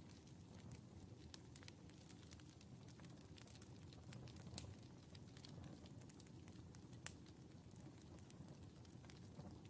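Wood fire burning in a fireplace, crackling with scattered sharp pops over a soft low rumble of the flames; two louder pops come about halfway through and again about two seconds later.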